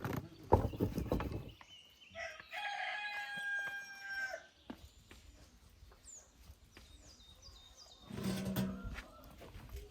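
A rooster crowing once, a single drawn-out call of about two seconds a couple of seconds in. It comes after a few loud knocks near the start.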